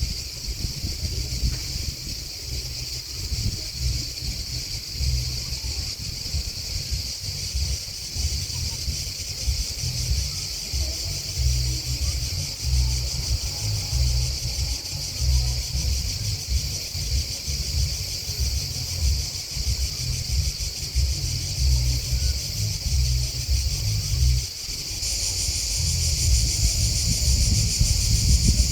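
Grasshoppers or crickets chirring in a steady, high, rapidly pulsing chorus, which gets louder near the end. Wind buffets the microphone with low rumbling gusts throughout.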